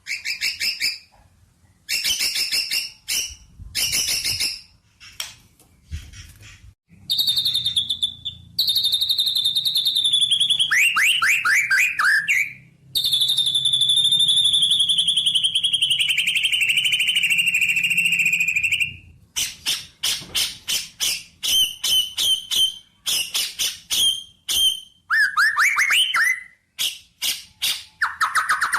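Songbird singing: runs of rapid chirps and trills, with a long warbling phrase about halfway through that slides slowly down in pitch.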